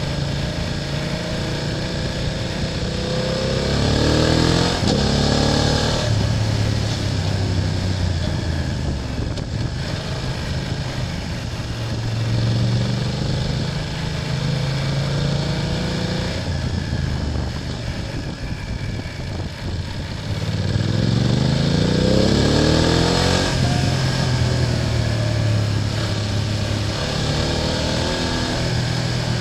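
BMW F800GS parallel-twin engine under way, running steadily and twice rising in pitch as it accelerates: once a few seconds in and again about two-thirds of the way through.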